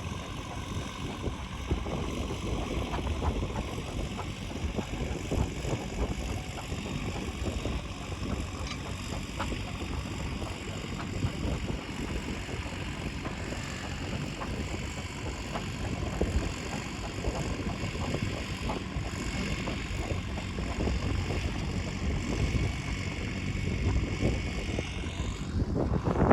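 An engine running steadily at a distance over a low rumble, getting louder in the last couple of seconds.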